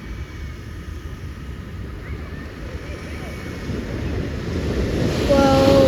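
Ocean surf: big waves breaking, the rushing noise swelling over the last two seconds as a wave comes in. Near the end a person's voice gives a short drawn-out call.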